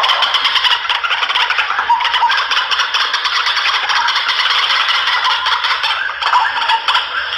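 White-breasted waterhen (ruak-ruak) calling: a loud, continuous run of fast rattling pulses, as used in a hunter's lure call.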